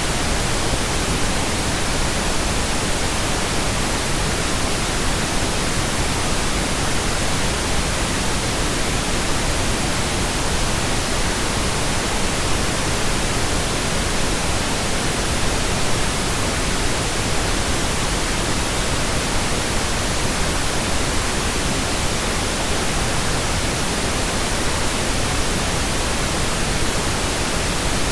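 Steady, unchanging pink noise, digitally generated: an even hiss spread across all pitches, with no events or changes.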